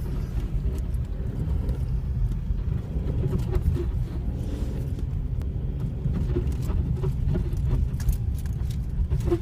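Skoda Rapid's suspension squeaking in short, irregular creaks over the steady low rumble of the car driving.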